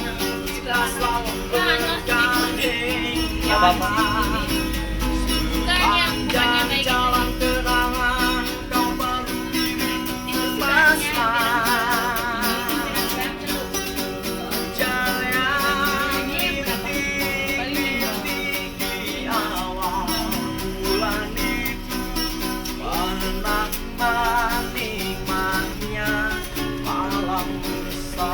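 A street busker's live acoustic music: plucked string accompaniment under a wavering melody line with vibrato, played through a stretch of the song without sung words.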